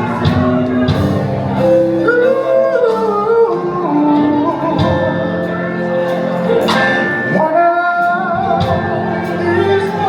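Live gospel band playing over a drum beat, with a voice singing long held notes that slide up and down.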